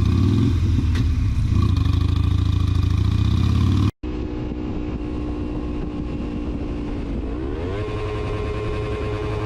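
Motorcycle engines heard from the riding bike. A loud, low-rumbling ride gives way after a short break about four seconds in to a steadier engine note. Near the end that note rises as the bike accelerates, then holds.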